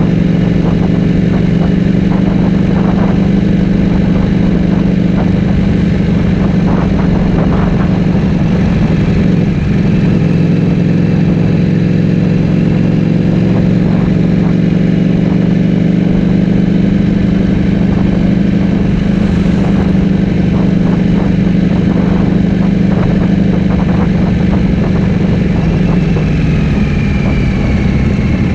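Ducati Streetfighter V4S V4 engine through an Akrapovic full-system exhaust, running at a steady engine speed. Its pitch drops slightly near the end.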